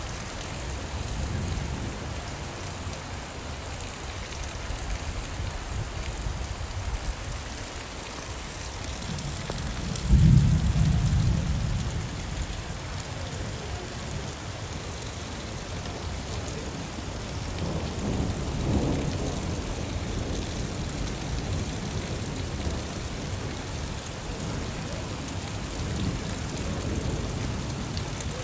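Steady rainfall with rolls of low thunder; the loudest rumble comes about ten seconds in, with weaker ones later.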